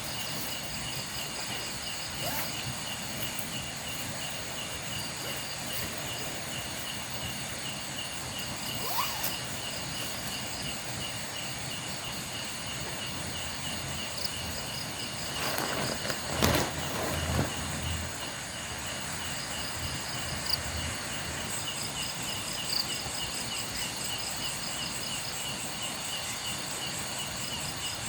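Night insects, crickets among them, trilling steadily in several high pitched layers, with a couple of short rising chirps. About halfway through there is a brief louder thump and rustle close by, the loudest moment.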